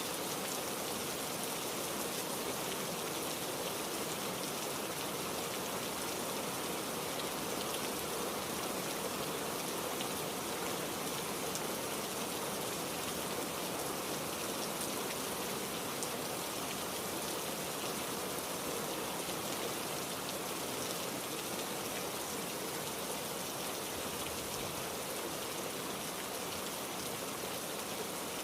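Steady heavy rain falling and pattering on surfaces, a dense even hiss with fine drop ticks and no thunder.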